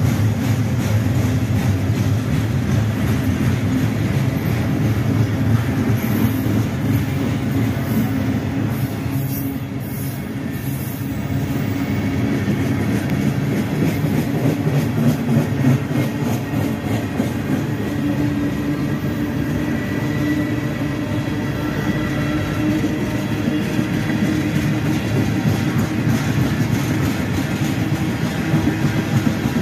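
Freight train rolling past: a steady rumble of steel wheels on rail with rapid clicking over the joints, and a faint thin wheel squeal in the second half.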